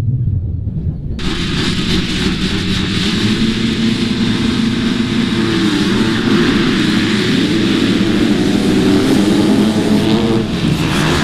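Motocross dirt bike engines running and revving together, the pitch wavering up and down; the engine noise comes in abruptly about a second in.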